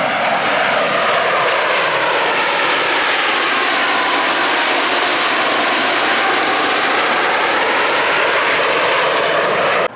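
Blue Angels F/A-18 Super Hornet jets flying past the crowd: loud, sustained jet engine noise with a slowly sweeping tone as the aircraft pass. It cuts off suddenly near the end.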